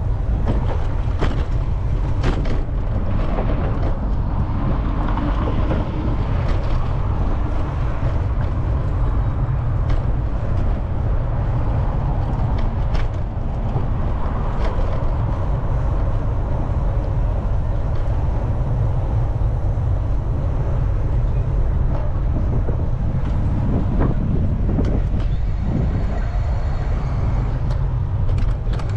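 Steady low rumble of street traffic and air rushing past a moving bicycle, with scattered small clicks and knocks.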